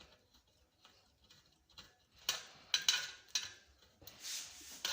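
Scattered clicks and taps of screws and tools being handled while a barber chair's headrest is put together: faint at first, then a run of sharper clicks from about two seconds in, with a short rustle near the end.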